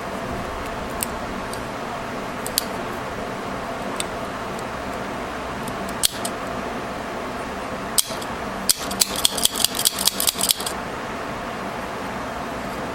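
Metal staple remover jaws clicking, a few single clicks and then a quick run of about a dozen clicks as it is snapped shut and springs open again and again, its spring tension restored with two rubber bands. A steady hiss underneath.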